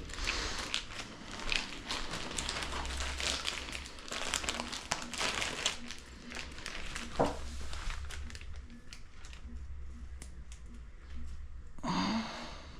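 Irregular crinkling and rustling of handled packaging or wrapping material, with a short squeak falling in pitch near the end.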